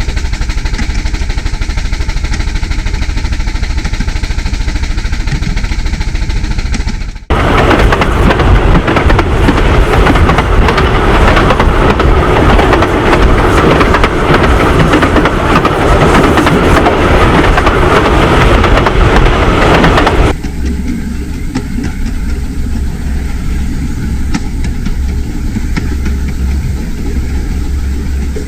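Running noise of a 15-inch gauge miniature railway train heard on board, a steady loud rumble and rush. About a third of the way in it switches abruptly to a louder, fuller roar, and about two-thirds of the way in it drops back to a thinner rumble.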